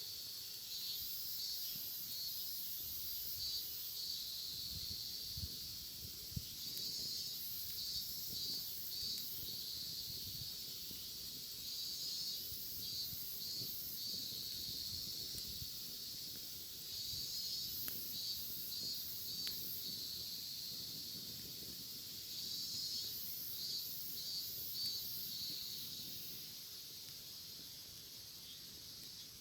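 Cicadas calling in a steady high buzz that breaks repeatedly into rapid pulsing phrases, with a few faint crackles from a wood campfire.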